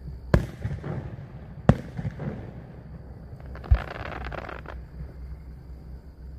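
Aerial fireworks shells bursting: three sharp booms, the first just after the start, the next near two seconds and the last near four seconds. Each boom is followed by crackling, and a longer run of crackle comes right after the third.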